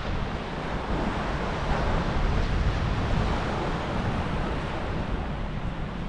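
Sea surf washing on the beach, with wind buffeting the microphone in a steady low rumble.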